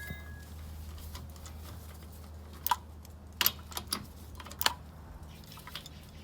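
Metal hand tools being handled: a few sharp, scattered clicks and taps, over a steady low hum.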